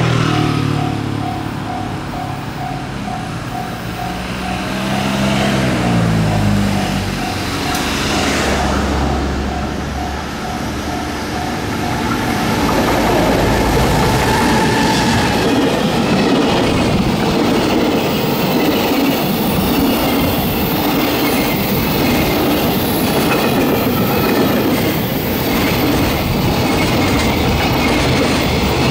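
Japanese level-crossing bell dinging steadily as an EF210 electric locomotive approaches with a low hum that slides in pitch. Then the locomotive and its container freight wagons pass close by in a loud steady rumble, with wheels clattering over the rail joints, and the bell is lost in the noise.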